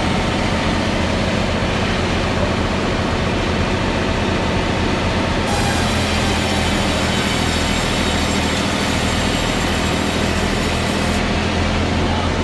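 A heavy machine running steadily with a deep hum. A higher hiss joins about five and a half seconds in and stops near the end.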